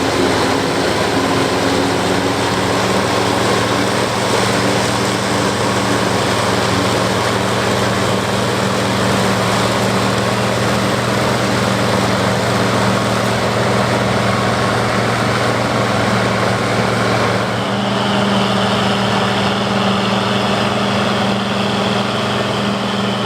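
International 1086 tractor's turbocharged six-cylinder diesel engine running steadily under load while powering a corn-chopping implement, with the machinery's continuous rush of noise. A higher-pitched whine joins in about two-thirds of the way through.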